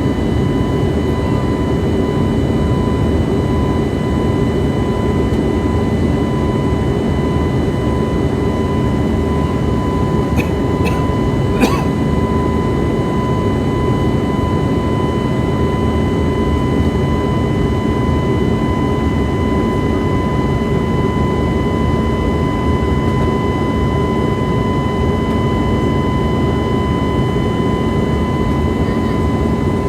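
Airliner cabin noise in flight: a steady rumble of the jet engines and rushing air, with a thin steady whine and its overtones. A few brief clicks come about ten to twelve seconds in.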